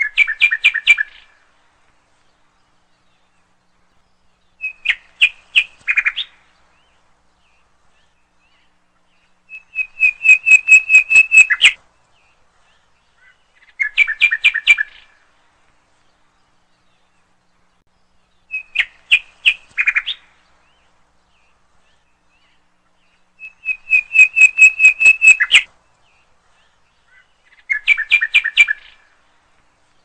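A small bird singing: seven loud phrases, each a quick run of sharp repeated notes, coming once every four to five seconds.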